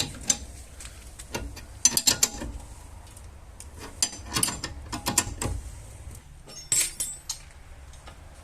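Metal hand tools clicking and rattling in short irregular clusters, with a few ratchet-like clicks, over a low steady hum.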